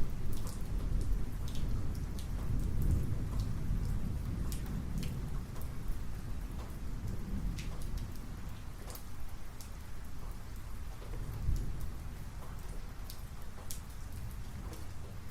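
Thunderstorm: steady rain with sharp ticks of individual drops landing close by, over a deep rolling rumble of thunder that is strongest in the first few seconds and dies down toward the middle.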